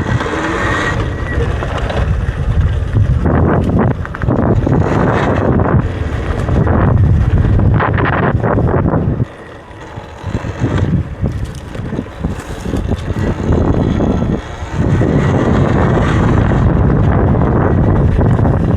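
Wind buffeting the microphone while riding a Talaria electric dirt bike over a trail, with scattered knocks and rattles from the rough ground. The wind noise drops away briefly about nine seconds in, then returns.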